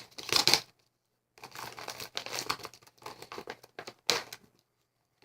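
Thick plastic MRE pouch crinkling and tearing as it is pulled open and handled, in irregular bursts with a short pause about a second in and a sharp crackle about four seconds in.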